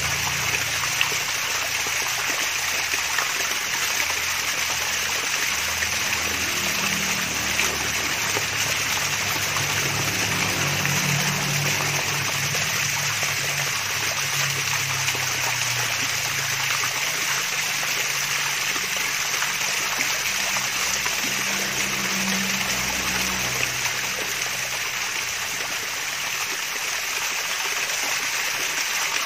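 Small waterfall splashing and trickling steadily, a continuous even rush of falling water.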